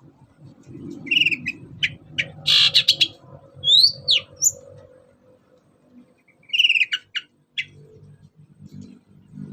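Long-tailed shrike (cendet) singing in bursts of short harsh chirps and quick whistled notes that rise and fall, with a pause between two bursts.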